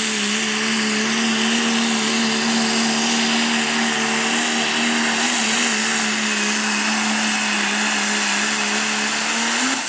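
Diesel pulling truck's engine held at high revs under full throttle, with a steady high turbo whistle above it. Near the end the engine lifts off and the turbo whistle winds down.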